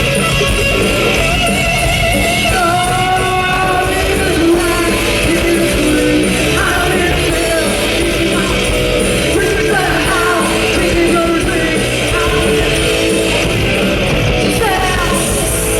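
Live rock band playing a loud, steady passage, with electric guitar to the fore over bass and drums.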